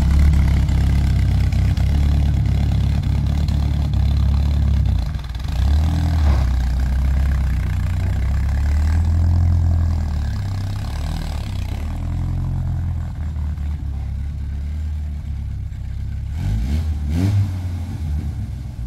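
An engine running, its revs rising and falling several times.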